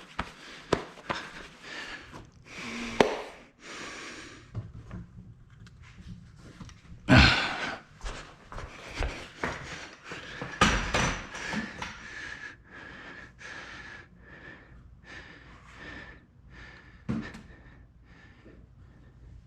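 Metal clinks and knocks as a cylinder head is worked into place on the engine block, with a heavy clunk about seven seconds in and another a few seconds later, amid heavy breathing from the effort.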